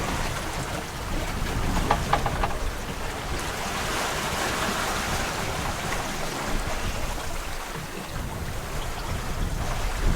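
Water rushing along the hull of a sailboat under way at about five knots on a calm sea, with wind rumbling on the microphone.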